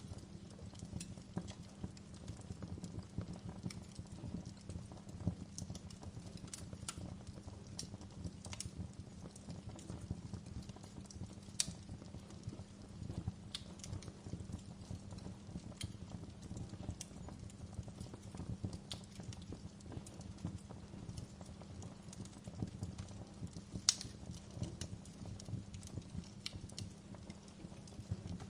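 Wood fire crackling in a fireplace: irregular sharp pops and snaps over a low steady rumble of the burning logs, with a few louder pops, the loudest toward the end.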